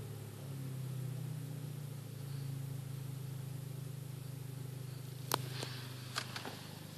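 Car engine idling through a 76 mm exhaust with one MG Race muffler and one resonator, a steady low hum as it settles after a rev. Several sharp clicks come in the last two seconds.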